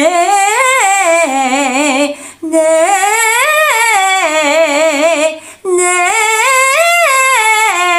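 A voice singing a vocal exercise: three short scale phrases, each climbing and falling back, with vibrato. Each phrase starts a step higher than the last.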